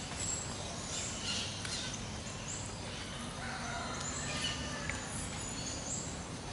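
Birds chirping in the background, with short high calls scattered through, over a steady low outdoor hiss.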